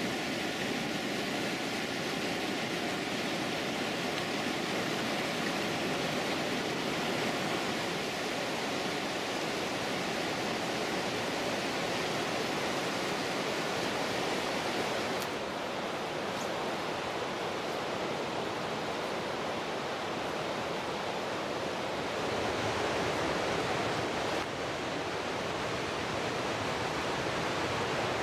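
Loud, steady rush of river rapids and a waterfall in high water. A faint hum fades out over the first several seconds, and the rushing changes character abruptly about 15 s in and again about 24 s in.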